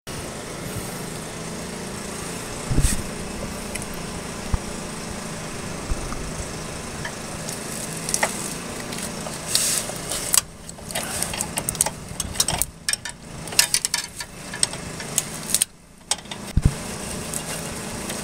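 A small engine or motor running steadily, with scattered knocks and clicks. From about ten seconds in, the clicks and knocks come thick and fast, with short gaps.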